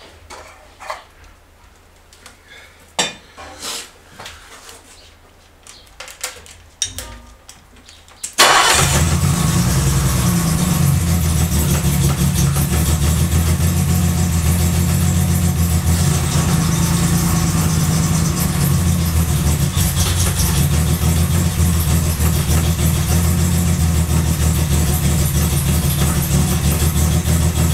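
Scattered faint clicks and knocks, then a BMW E3 2800's 2.8-litre straight-six engine fires a little under a third of the way in and settles into a steady run on a cold start.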